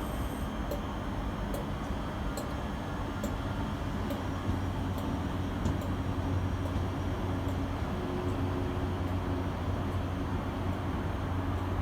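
A train at a main-line station: a steady low rumble with a hum that grows stronger about four seconds in, and faint ticks roughly once a second.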